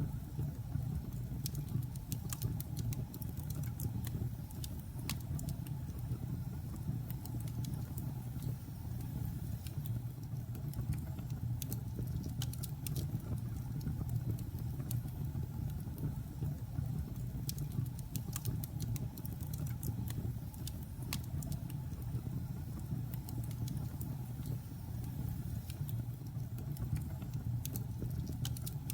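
Logs burning in a fireplace: a steady low rumble from the fire with frequent, irregular sharp crackles and pops.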